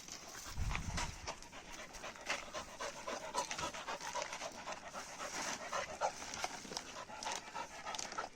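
Dogs panting in the heat, with scattered small clicks and rustles and one low thump just under a second in.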